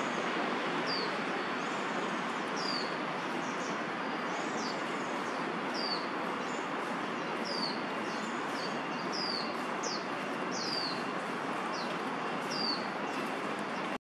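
A small bird giving short, high chirps that fall in pitch, repeating roughly once a second, over a steady background of noise.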